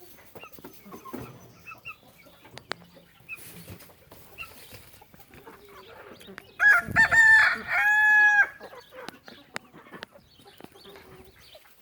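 A rooster crows once, about seven seconds in: a few quick notes running into a long held note that stops at the end. Faint clucking of hens is heard around it.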